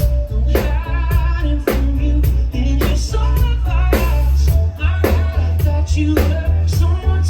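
Live amplified band music with a heavy bass, a drum beat striking about once a second with lighter hits between, and a voice singing a melody over it.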